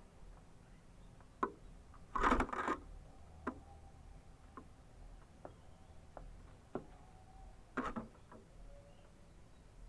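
Scattered light clicks and taps of a canary moving about its cage, with a louder rattling cluster about two seconds in and another near the eight-second mark. No singing.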